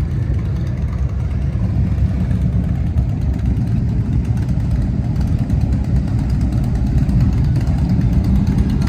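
Motorcycle engine idling: a low, steady rumble.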